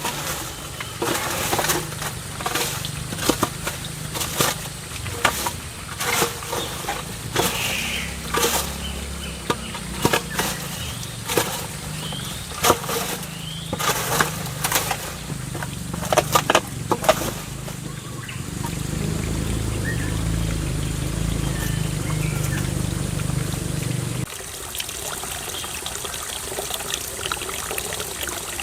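Water pouring and trickling, with many irregular sharp knocks and clicks over the first half. A steady low hum sets in about two-thirds through and cuts off suddenly near the end.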